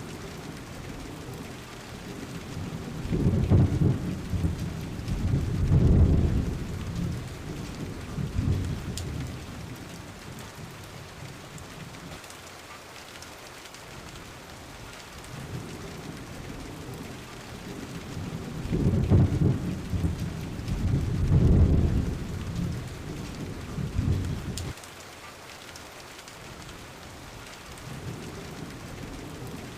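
Steady rain falling, with two long, low rolls of thunder: the first starts a few seconds in, the second over halfway through, each rumbling for several seconds.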